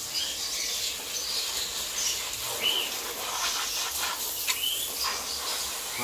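A few short bird chirps, one about three seconds in and another about four and a half seconds in, over a steady hiss.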